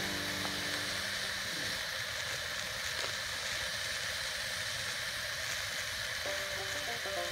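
Food frying on an iron griddle over a fire, a steady sizzle. Background music fades out in the first second and comes back near the end.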